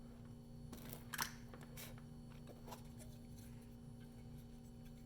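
Faint clicks and scrapes of a soldering iron tip and capacitor leads being worked on a circuit board while solder is heated to pull the part off. Most come about a second in, with a couple of lighter ticks later, over a steady low electrical hum.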